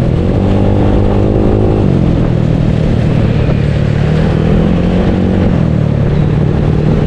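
Bored-up Yamaha Mio scooter engine running under way, its note shifting in pitch a few times as the throttle changes, with a steady rushing noise underneath.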